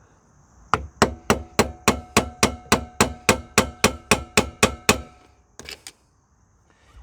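A hammer striking a punch against a rusted drive-chain master link, about sixteen quick ringing metal blows at roughly four a second, then two lighter taps near the end. The rusted link is seized and will not slide off.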